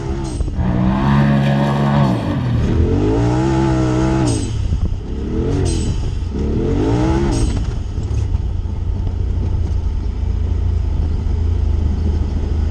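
Vehicle engine revving up and falling back about four times in quick succession while driving, with a few sharp clicks or knocks, then settling into a steady low running sound for the last few seconds.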